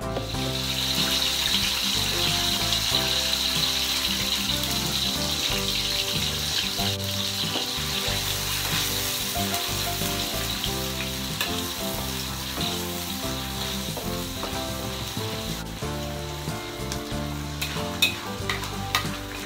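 Blended chili paste sizzling as it fries in hot oil in a wok, stirred with a metal spatula; a few sharp clicks of the spatula against the wok near the end.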